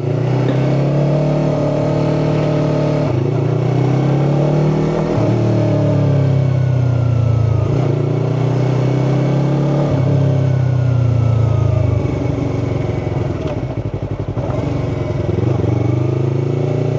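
Yamaha R3's parallel-twin engine running under a rider, its pitch rising and falling several times as the throttle is opened and closed at low speed.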